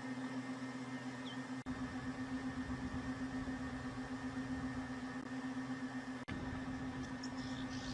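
A steady low hum over a faint hiss that drops out for an instant twice.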